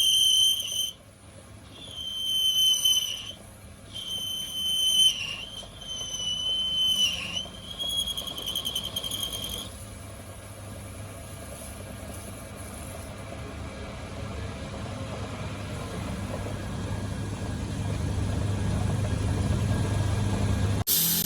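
High-pitched metal squealing in short repeated bursts with gaps between them, then a low motor hum that builds steadily louder; a workshop tool working metal.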